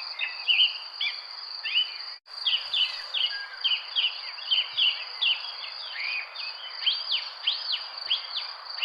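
Park birds chirping and twittering in quick, repeated short calls over a steady high insect trill, like crickets, with a soft background hiss. The sound drops out for an instant about two seconds in.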